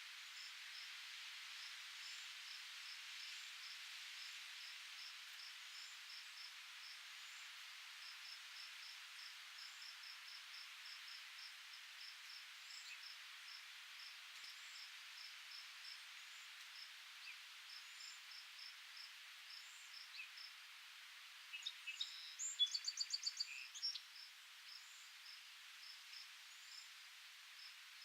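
Soft steady wind hiss with an insect, likely a cricket, chirping in short even pulses about three times a second. A bird calls briefly in a quick run of notes a little over two-thirds of the way through.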